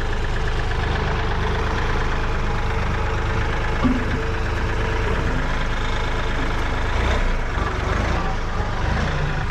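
Small tractor engine running steadily at low speed, its note shifting a little about seven seconds in.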